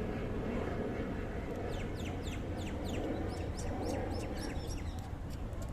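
Birds chirping: a quick string of short, high calls, each falling in pitch, starting about one and a half seconds in, over a steady low background noise.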